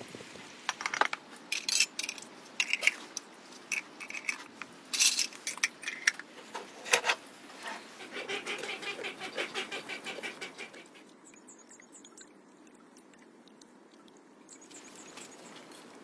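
A run of sharp clicks and knocks, then a quick rhythmic rattle lasting about two seconds, after which it goes much quieter.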